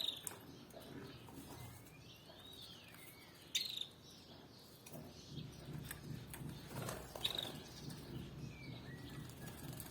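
Canaries giving sparse short chirps: three sharp call notes a few seconds apart, with a soft rising-and-falling whistle between the first two.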